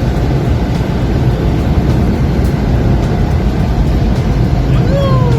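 Automatic tunnel car wash equipment running, heard from inside the car: a loud, steady rumble and wash of water and machinery working over the car body. Near the end there is one short falling squeal.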